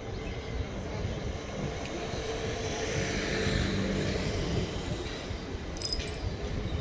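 A vehicle passing by, its noise swelling to a peak about halfway through and then fading, with a brief high clink near the end.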